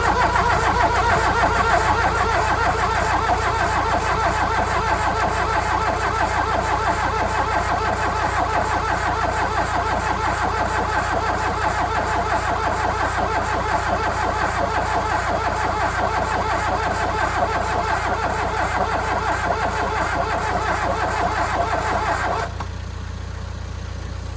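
VW Rabbit 1.6 diesel engine being cranked by its starter for about twenty-two seconds without catching, then stopping suddenly. The glow plugs are not getting power because their feed cable is not connected, so the cold diesel will not fire.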